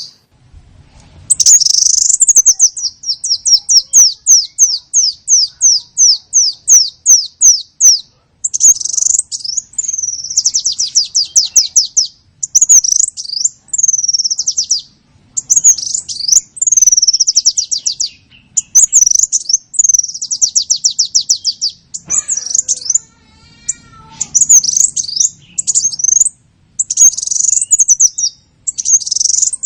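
Small songbird calling as a bird-trapping lure: loud, high chirps in a steady run of about three a second, then faster trills and short phrases with brief gaps between them.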